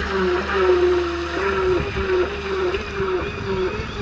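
Brushless electric motor and propeller of a radio-controlled surfer model running on the water: a steady whine that wavers up and down in pitch as the throttle shifts, over a wash of water noise.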